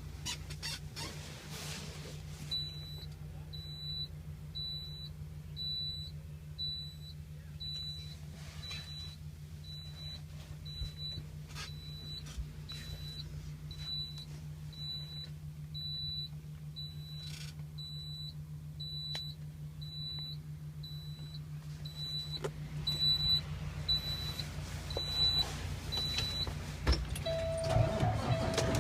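Truck cab warning chime giving a string of short, high-pitched electronic beeps, about three every two seconds, that stop near the end. A steady low hum runs underneath.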